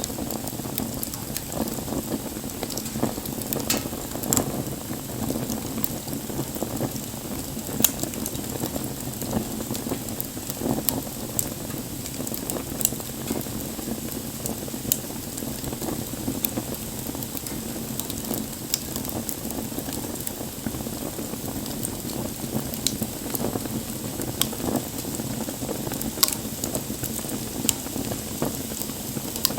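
Campfire burning: a steady hiss and rumble of flames, with frequent sharp crackles and pops from the burning wood and a few louder pops standing out.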